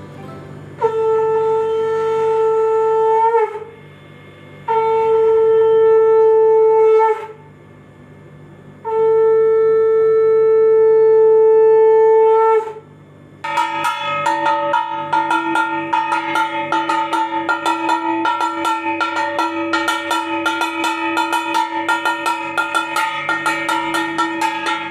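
A conch shell (shankha) blown three times in long, steady blasts, each dipping slightly in pitch as it ends, as is done at the Bengali evening prayer. About halfway in, a continuous, rapidly pulsing ringing takes over.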